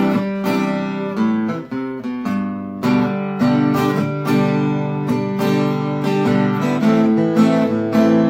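Acoustic guitars strumming chords in a steady rhythm, the instrumental intro of an acoustic Americana song before the vocals come in.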